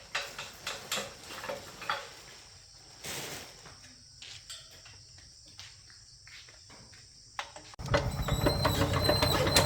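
Metal clanks and knocks of a hand crank being fitted and turned on a small farm tractor's engine, as someone tries to start it. About eight seconds in, a much louder, steady rumbling noise begins.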